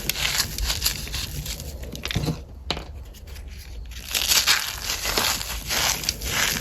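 Cornstarch being crushed: a quick run of crisp crunches, easing off into a quieter lull around the middle before the crunching picks up again.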